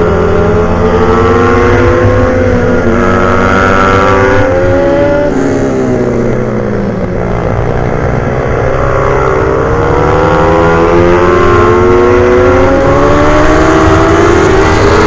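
Pit bike engine at full throttle on a race track: the pitch climbs for about five seconds, drops steeply as the bike slows for a corner, then climbs again.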